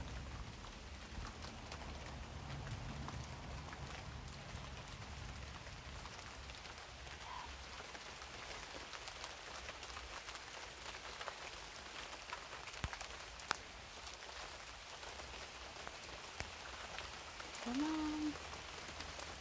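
Rain falling, a steady light patter with scattered drops ticking on nearby surfaces, and a few sharper taps about two-thirds of the way through.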